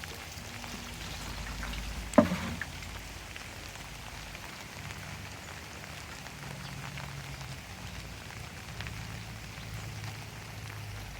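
Steady rain falling in a garden, with one sharp knock about two seconds in.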